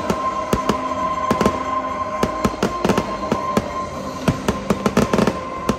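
Fireworks going off in quick succession, with many sharp bangs and a dense flurry of them about five seconds in.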